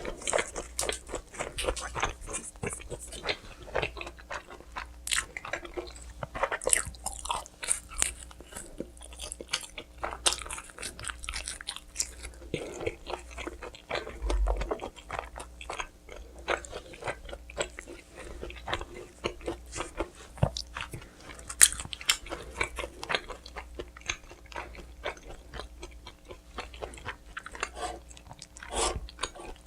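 Close-miked biting and chewing of pizza, with many short, sharp crackles from the bites throughout.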